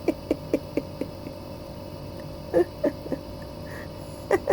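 A Highlander–Sphynx mix kitten making a quick string of short chirping mews, about four a second at first. Later come two brief clusters of a few more.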